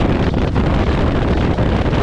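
Loud wind buffeting the microphone on a Kawasaki jet ski running at speed, with the watercraft's engine and water rush underneath.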